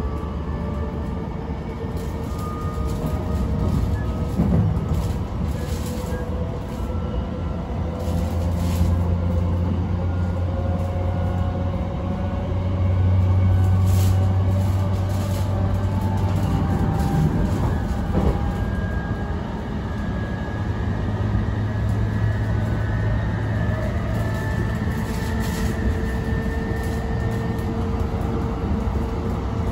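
Electric commuter train running at speed, heard from inside the carriage: a steady low rumble of wheels and running gear with faint whining tones over it and occasional sharp clicks, swelling a little about halfway through.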